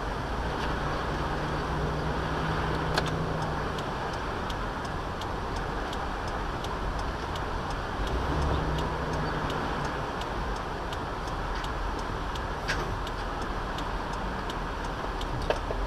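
A car being driven, heard from inside the cabin: steady engine and road noise, with a light, regular ticking about three times a second.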